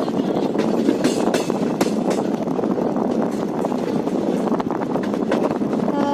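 Passenger train running at speed, heard from inside the coach: a steady rumble with irregular clicks and knocks from the wheels and the rattling carriage.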